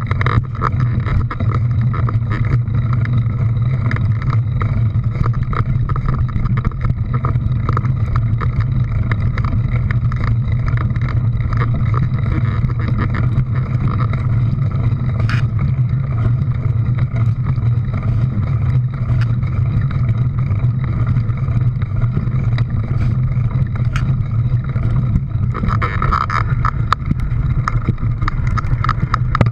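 An engine running steadily with an unbroken low drone.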